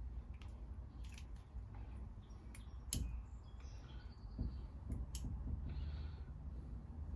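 Small clicks and taps of carburetor parts and hand tools being handled during carb cleaning, with a louder click about three seconds in and a short hiss near six seconds.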